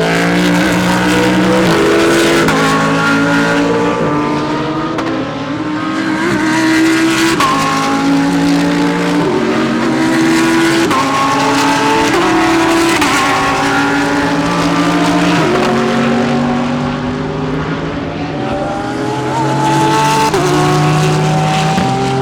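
Several GT3 race cars accelerating hard at once, their engine notes repeatedly rising in pitch and dropping back at each upshift.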